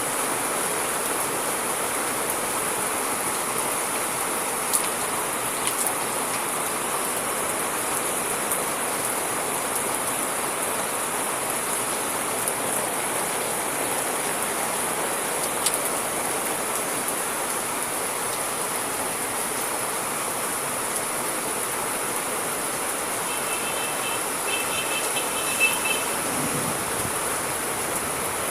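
Steady rain, an even hiss with a few sharper drop ticks. Near the end, a short run of faint high chirps sounds over the rain for a couple of seconds.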